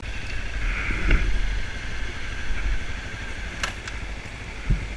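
Motorbike riding along a road: the engine runs under a low wind rumble on the handlebar-mounted microphone, with a short click and a thump near the end.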